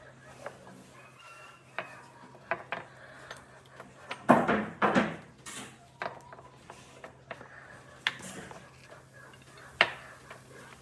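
Scattered sharp knocks and clicks of hard objects, with a louder clattering burst about four seconds in that lasts about a second.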